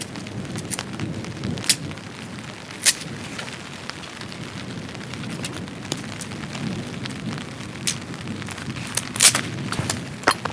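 Steady rain with a low rushing noise, broken by scattered sharp cracks and pops. The loudest crack comes about nine seconds in, and another comes near the end.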